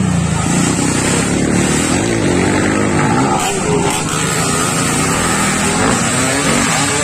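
Small motorcycle engines revving during a race, their pitch rising and falling, over a constant noisy wash.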